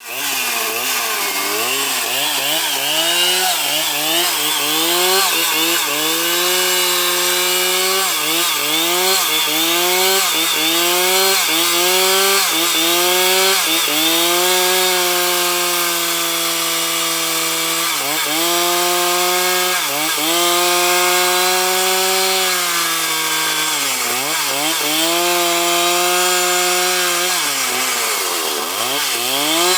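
Two-stroke chainsaw at full throttle cutting through wood to saw out boards. The engine pitch dips and recovers again and again as the chain bogs under load, about once a second at first, then holding steadier for a few seconds between dips.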